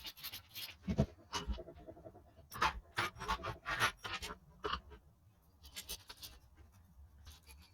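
Irregular clicks, taps and scrapes of metal engine parts and tools being handled during engine rebuild work.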